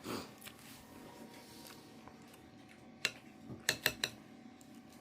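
Quiet background with a handful of sharp, light clicks in quick succession about three to four seconds in.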